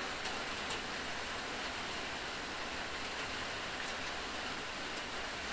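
Steady rain falling on open water: an even hiss of countless drops hitting the surface, with a few sharper drop ticks.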